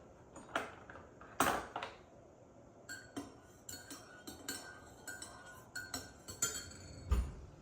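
A run of light clinks and knocks, like dishes or glass containers being handled, some with a brief ringing, ending with a dull thump about seven seconds in.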